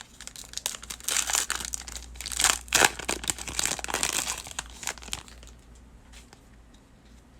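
A trading card pack's foil wrapper crinkling and tearing as it is ripped open by hand, the rustling fading out about five seconds in.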